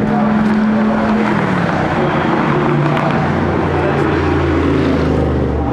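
Race car engine running with a steady note that drops in pitch about a second and a half in, settling to a lower, deeper idle.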